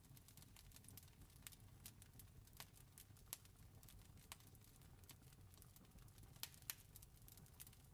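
Campfire crackling: irregular sharp snaps and pops, a few louder than the rest, over a faint steady low rumble.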